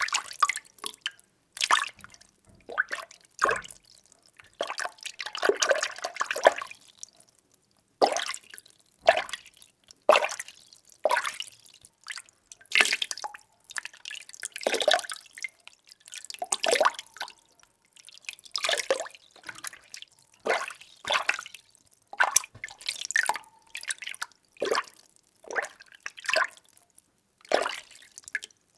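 Water being stirred: a run of separate swishes and splashes, roughly one a second, some drawn out longer, with short gaps between them.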